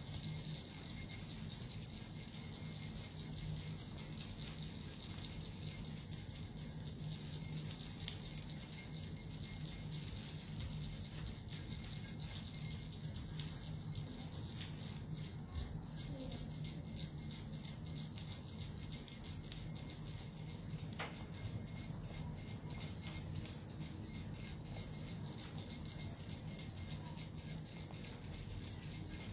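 Suzu bells and a metal rattle shaken continuously, a steady high-pitched jingling shimmer.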